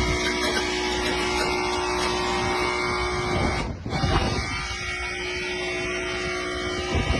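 Steady mechanical hum and whine made up of several steady tones, broken off briefly about halfway through and then resuming.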